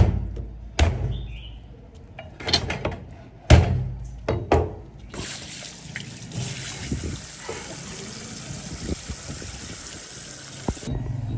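A few sharp knocks, then water running steadily from a kitchen tap for about six seconds, turned on and off abruptly.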